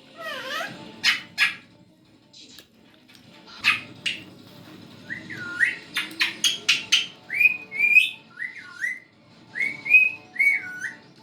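Parrot calling: a few sharp squawks and clicks, then a run of clear whistled notes that dip down and swoop back up, about eight in quick succession over the second half.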